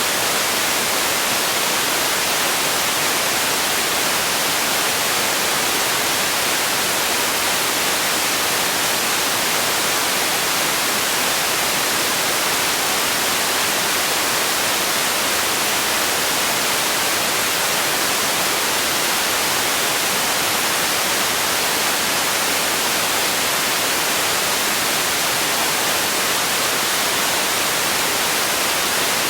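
Steady white noise: an even, unbroken hiss, bright in the highs with little low end.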